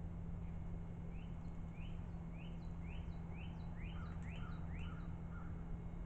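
A bird calling: a run of short, rising high notes, about two a second, stopping about five seconds in, over a steady low hum.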